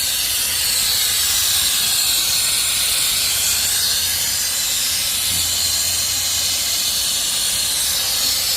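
Nitrogen hissing steadily out of an air-conditioning system as the pressure-test charge is released after the system held pressure.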